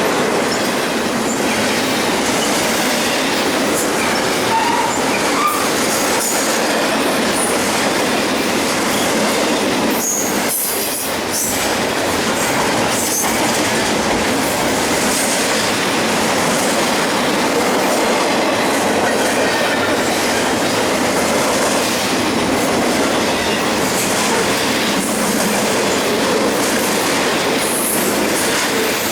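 BNSF double-stack intermodal train rolling past at speed: a steady, loud rumble and rattle of freight-car wheels on the rails, with clicks over rail joints and a few brief wheel squeals.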